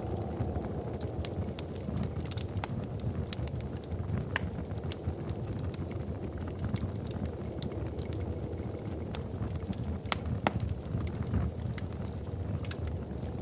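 Wood fire crackling in a fireplace: a steady low rumble of burning with frequent, irregular sharp snaps and pops, one of the louder snaps about ten seconds in.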